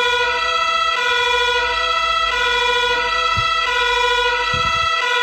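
Servonaut RC sound module playing an emergency-vehicle siren through its small loudspeaker. It is a steady two-tone siren that switches pitch about every second and a third.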